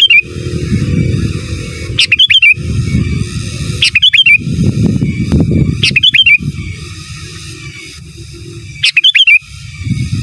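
Sooty-headed bulbul giving short, loud, repeated call phrases, about one every two seconds with a longer pause near the middle, over a steady low rumbling noise.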